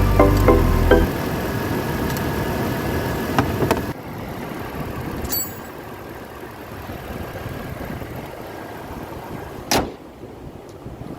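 Steady running noise of a car, dropping in level about four seconds in, with one sharp knock near the end.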